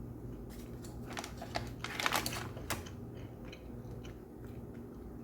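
Person biting into and chewing a chocolate-frosted donut close to the microphone. A cluster of crackly, wet mouth sounds peaks about two seconds in, then fades to faint chewing ticks.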